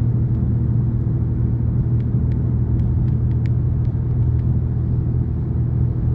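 Steady low rumble of a car driving, heard from inside the cabin, with a few faint light ticks near the middle.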